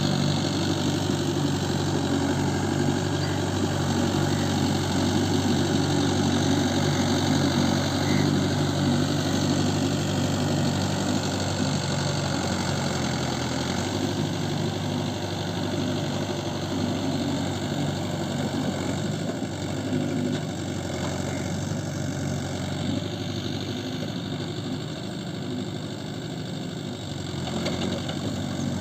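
Mahindra Yuvo 575 tractor's four-cylinder diesel engine running steadily, easing off in level past the middle and picking up again near the end.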